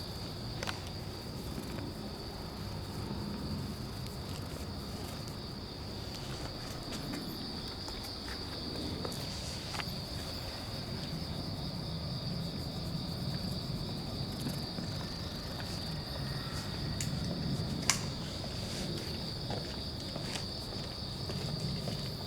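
Insects, such as crickets, trilling steadily and high-pitched, over a low rumble with a few small clicks, the sharpest about eighteen seconds in.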